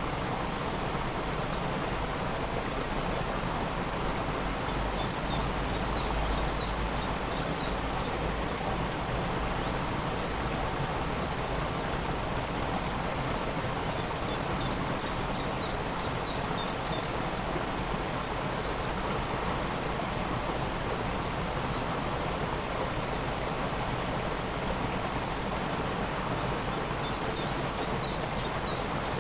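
Steady noise of a waterfall's falling water. Three times, a few seconds in, about halfway and near the end, a bird gives a quick series of short high notes.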